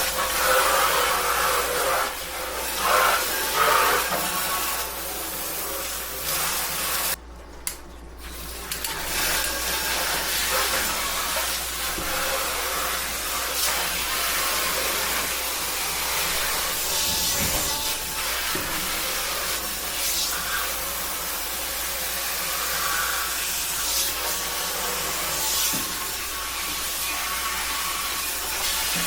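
Garden hose water spraying into an emptied deep-fryer vat to rinse it out, a steady hiss that stops briefly about seven seconds in and then resumes.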